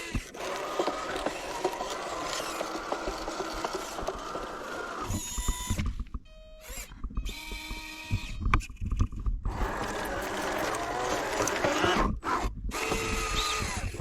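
Small electric gear motors of a 3D-printed RC skid steer loader whirring and whining as the model drives and works its arms and bucket, the pitch shifting as the motors start and stop, with a brief lull about halfway through.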